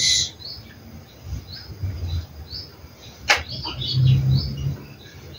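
A small bird chirping, short high chirps repeated about once a second, with one sharp click about three seconds in.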